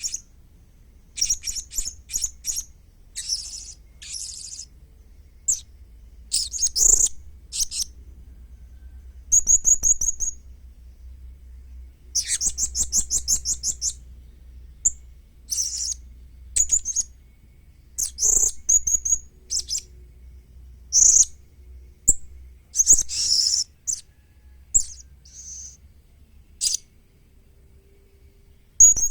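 Young blue-crowned hanging parrot (serindit) calling: high, thin chirps and rapid trills in short bursts, with brief pauses between them.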